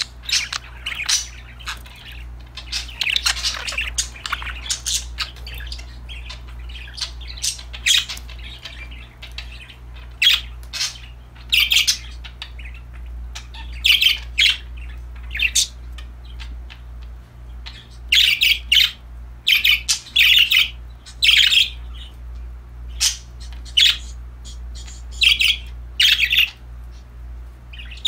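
Pet budgerigars calling: a busy chatter of chirps and sharp squawks, then short clusters of shrill calls a couple of seconds apart, over a low steady hum.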